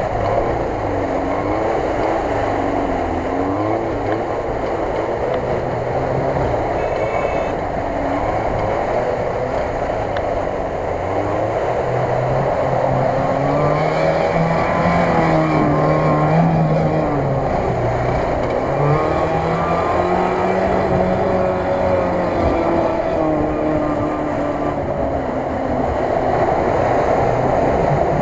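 A Lada Niva 4x4's engine revving up and down as it drives through shallow lake water, with water splashing off the wheels.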